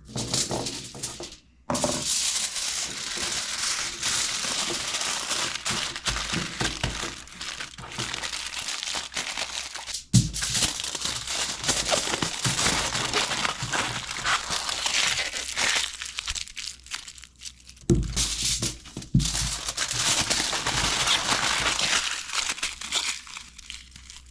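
Crinkling and crumpling, like paper or wrapping being scrunched and handled, in long crackly stretches broken by a few short pauses.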